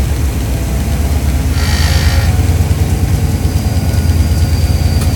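Taiwan Railway train heard from on board as it moves slowly through a station: a steady low engine and running-gear rumble, with a brief hiss about two seconds in.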